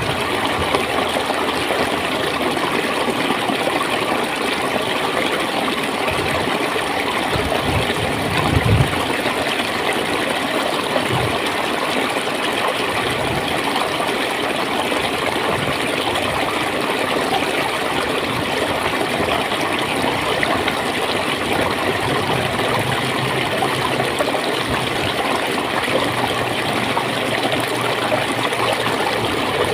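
Water flowing and gurgling in a steady rush, with a few low bumps about eight to eleven seconds in.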